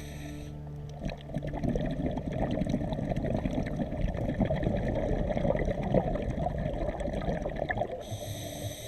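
Scuba diver breathing through a regulator underwater: the hiss of an inhalation ends about half a second in, then a long burble of exhaled bubbles follows, and a new hissing inhalation starts near the end.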